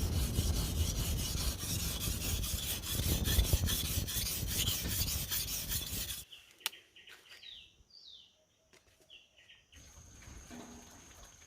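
Rough, rhythmic rasping or scraping for about six seconds that cuts off suddenly. Quieter short falling bird chirps follow, then a steady high whine.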